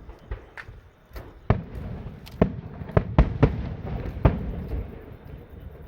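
Fireworks show: aerial shells bursting in an irregular series of bangs, a few faint ones first, then louder booms from about a second and a half in, several close together around the middle.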